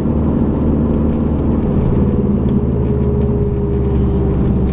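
Car engine running steadily with road noise, heard from inside the moving car's cabin.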